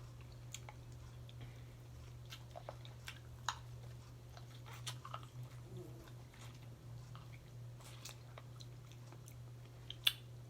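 Soft chewing and scattered small mouth clicks of a person eating a seafood meal of mussels and shrimp pasta, over a steady low hum.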